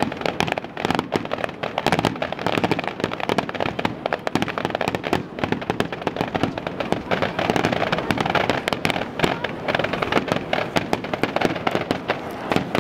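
Fireworks going off without a break: a dense run of sharp bangs and crackles, many to the second.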